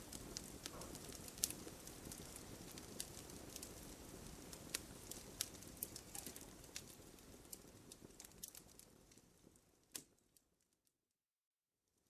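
Campfire crackling: many sharp pops and snaps of burning wood over a low rumble of flame. Near the end it fades out, a last louder pop comes, then complete silence for about a second and a half before it begins to fade back in.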